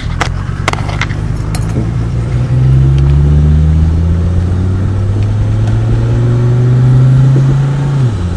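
1990 Mercedes 300D diesel engine pulling the car away from a stop, its drone climbing slowly in pitch for about five seconds, then dropping sharply near the end. A few light clicks and rattles come in the first second or so.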